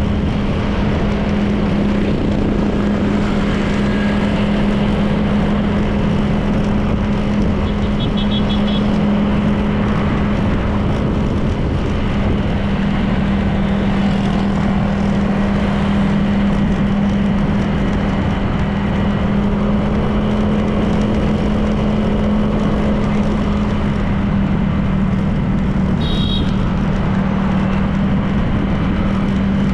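A Honda PCX 160 scooter's single-cylinder engine running at a steady cruise, heard with wind and road noise. Its pitch drops slightly in the last quarter. Two brief high chirps come about 8 and 26 seconds in.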